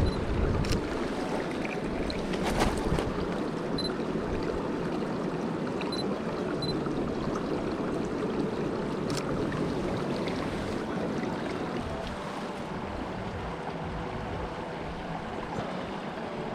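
Small river flowing, a steady rushing of water that eases a little in the last few seconds.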